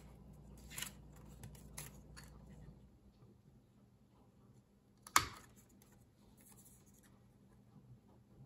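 Paper being cut by hand at a craft desk: a few short snips in the first couple of seconds, then one sharp click about five seconds in.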